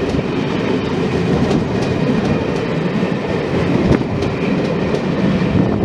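Pullman passenger coaches passing close by at speed: a steady loud rumble of wheels on rail with scattered clicks.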